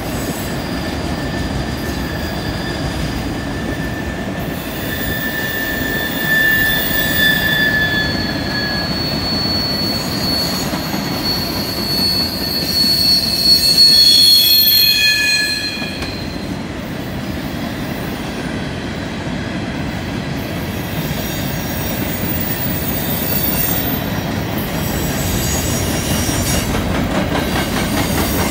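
Freight cars rolling through a curve: a steady rumble of wheels on rail with drawn-out, high-pitched wheel squeals, several tones coming and going, loudest about halfway through.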